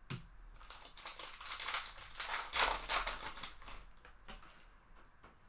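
Rustling and crinkling of a trading-card pack wrapper and cards being handled. It is loudest around the middle and fades away after about four seconds, with a sharp click right at the start.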